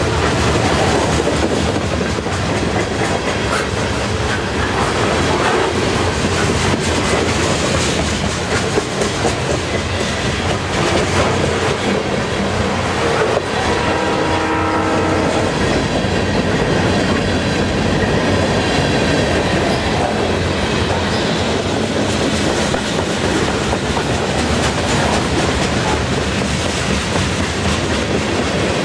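Freight train of loaded centerbeam lumber flatcars and covered hoppers rolling steadily past, the cars rumbling and the wheels clacking over the rail joints. About halfway through, a brief chord of steady tones sounds over the rolling for about two seconds.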